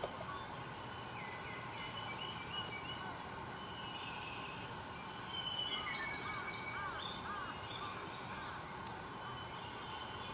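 Several wild birds calling and singing, with short high whistled notes throughout and a quick run of repeated arching notes a little past halfway, over a steady background hiss.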